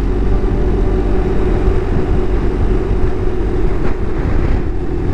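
Motorcycle riding at a steady cruise: the 2018 BMW R1200GS Adventure's boxer-twin engine running evenly under a heavy rush of wind noise on the microphone.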